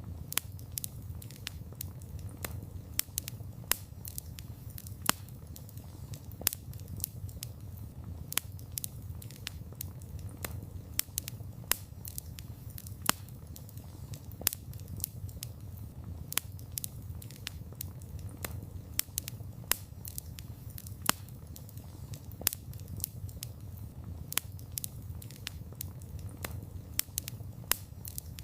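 Wood fire burning, crackling: many irregular sharp pops and snaps, a few of them loud, over a steady low rumble of the flames.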